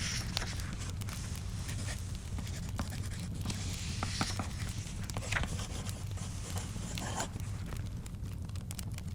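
Paper-and-pencil study sounds: short scratchy strokes and paper rustles come a few times, with scattered small crackling clicks, over a steady low rumble.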